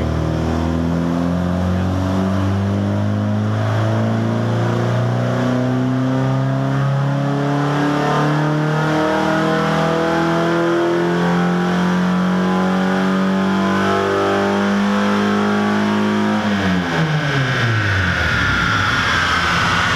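Nissan 240SX's rebuilt KA24DE 2.4-litre four-cylinder engine making a loud full-throttle dyno pull, revs climbing steadily for about sixteen seconds, then falling quickly as the throttle is released. The engine is running very lean under load, by the crew's reckoning.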